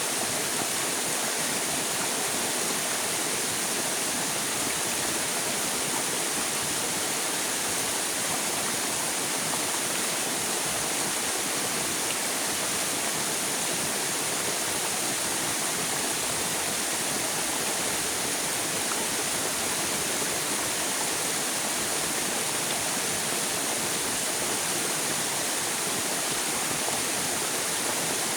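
River water rushing steadily, a continuous even hiss with no breaks.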